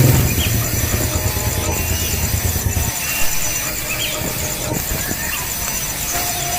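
A motor engine, likely a passing motorcycle, running as a low hum that stops about three seconds in, with a steady pulsing high-pitched whine and a few short chirps over it.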